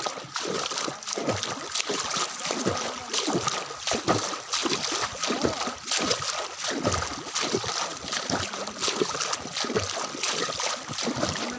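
Floodwater splashing and sloshing in irregular strokes, as someone wades through it.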